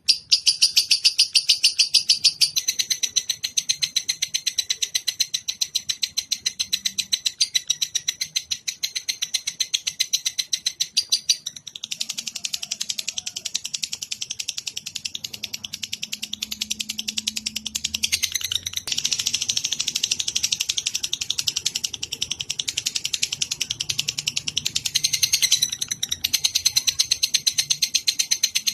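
Songbird calling in a rapid, unbroken chattering trill of fast repeated high chirps, shifting in pitch and tone a few times, as played in a birdsong training recording.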